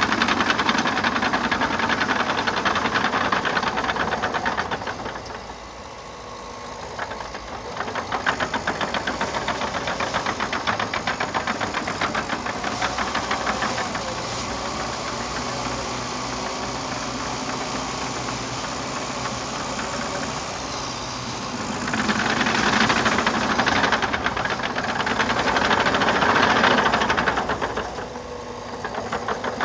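Liebherr PR 726 crawler dozer's diesel engine running under changing load. The level drops for a couple of seconds about six seconds in and rises again for several seconds after twenty-two seconds.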